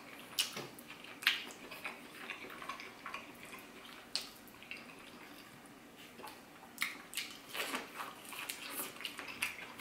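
A person chewing and eating close to the microphone: irregular mouth clicks and smacks, coming more often in the last few seconds.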